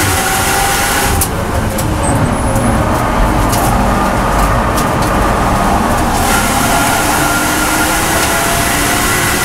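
BMW M240i Cup race car's turbocharged 3.0-litre straight-six, heard from inside the cockpit: at full throttle near 6,000 rpm in third gear, it eases off about a second in to part throttle for a corner, duller and lower, with a few sharp clicks. Around six seconds in it goes back to full throttle, its pitch rising as it accelerates.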